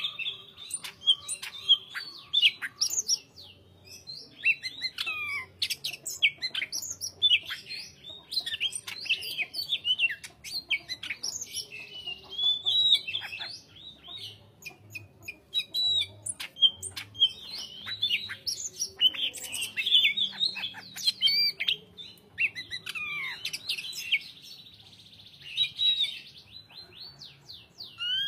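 Cucak hijau (green leafbird) singing, a fast stream of varied chirps, whistles and rising and falling glides, broken by a few short pauses.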